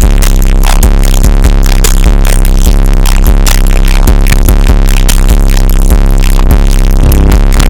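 Electronic bass music played very loud through a truck's car stereo with two JL Audio 13W7 subwoofers. The deep bass is heavy and steady under a driving beat.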